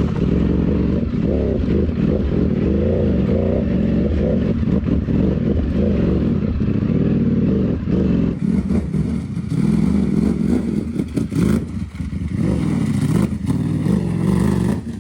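Ducati Panigale V4's V4 engine revving hard and unevenly through a very loud new exhaust while the bike works up a snowy climb. The revs rise and fall throughout, with more clattering from about eight seconds in.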